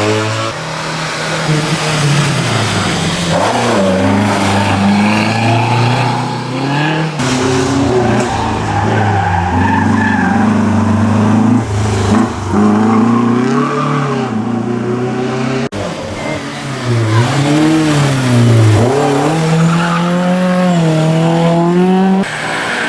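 Racing car engines revving hard, the pitch climbing and dropping again and again through gear changes and lifts, with tyre squeal. The sound jumps suddenly between several short clips.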